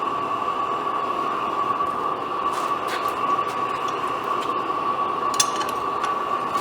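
Old Bovard & Company engine being turned over: a steady mechanical whir with a high, even whine and a few sharp clicks, without catching.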